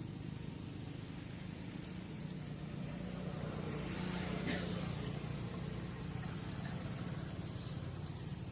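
A vehicle engine runs steadily with a low drone, swelling briefly about four seconds in with a short sharp sound at its peak.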